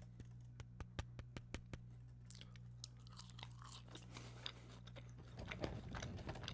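Close-miked chewing of French fries dipped in buffalo ranch sauce: quick, sharp, wet mouth clicks, densest in the first two seconds and again near the end. A steady low hum sits beneath.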